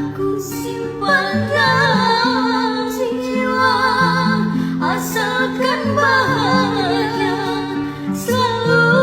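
A singer's voice carrying a wavering, ornamented melody over held accompaniment notes, breaking off briefly a few times between phrases.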